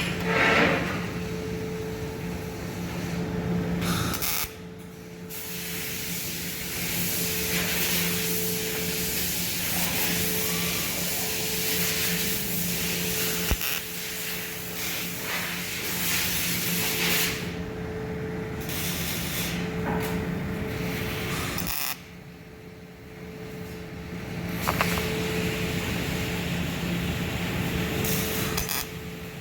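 MIG welding arc hissing and crackling over a steady low hum, breaking off briefly a few times between runs.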